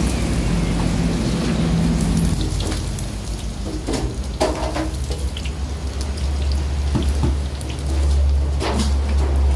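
Battered food deep-frying in hot oil in a wok: a steady sizzling hiss, with a metal slotted spatula now and then knocking and scraping against the wok. A low rumble runs underneath and grows heavier in the second half.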